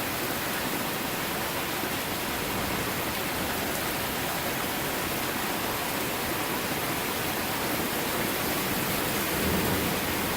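Heavy rain falling steadily during a thunderstorm, a continuous even hiss.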